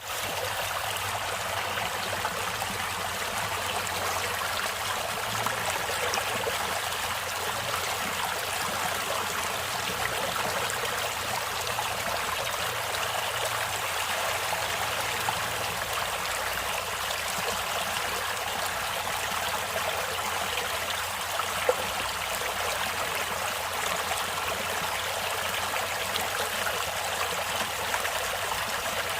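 Stream water flowing and trickling steadily, with one brief louder splash or tick about three-quarters of the way through.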